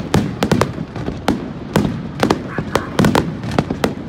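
Aerial firework shells bursting overhead in a barrage: a quick, irregular run of sharp bangs, about three or four a second, over a low rumble.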